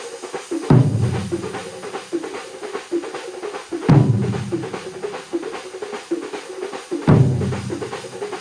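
Large drum ensemble playing a fast, dense rhythm, punctuated by three deep bass-drum hits about three seconds apart that ring on.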